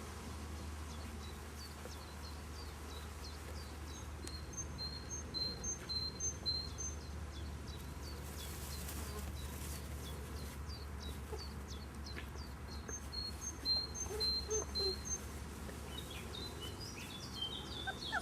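A small bird singing: a quick run of short, high chirps, repeated twice in nearly the same phrase, with scattered single chirps between, over a steady low hum.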